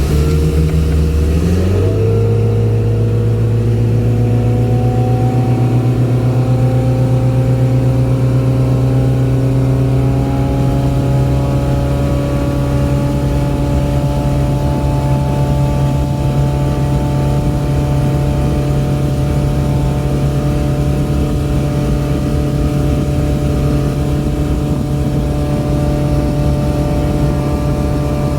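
Sterndrive boat engine throttling up hard about two seconds in, then running steadily at high revs near wide open throttle, its pitch creeping slowly higher.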